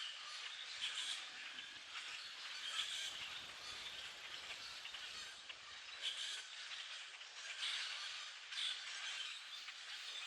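A large flock of common grackles calling all at once: a dense, unbroken chatter of many overlapping calls, with louder calls standing out every second or so.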